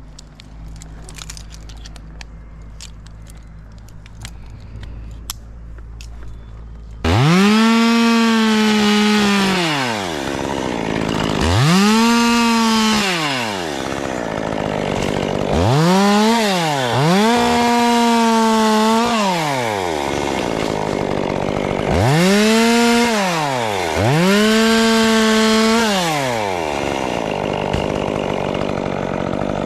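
Two-stroke chainsaw, loud from about seven seconds in, opened up to full throttle about six times, each burst rising to a steady high pitch, holding a second or two, then dropping back. Before it starts there are only a few faint clicks.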